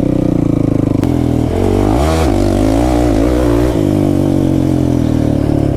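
Kawasaki KFX 450R quad's single-cylinder four-stroke engine running under riding load. Its note changes abruptly about a second in, then rises and falls for the next couple of seconds before settling.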